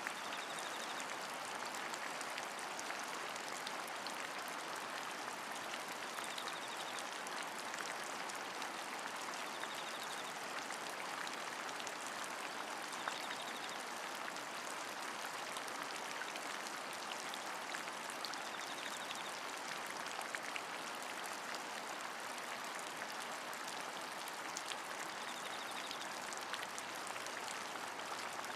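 Steady rain with the patter of individual drops. A faint, short high chirp recurs every few seconds.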